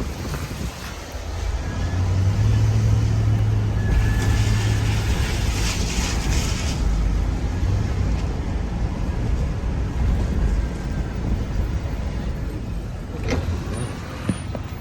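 A vehicle on the move: steady low engine and road rumble that grows louder about two seconds in, with a brief hissing wash a few seconds later and a couple of small clicks near the end.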